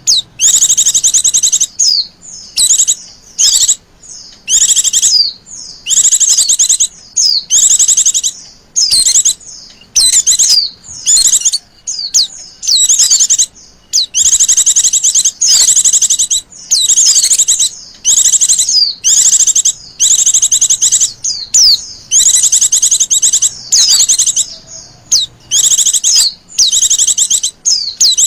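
Female white-eye (Zosterops) calling: loud, rapid high-pitched chirping trills in short bursts about a second long, repeated again and again with brief pauses. This is the female's call that bird keepers play to draw males into singing.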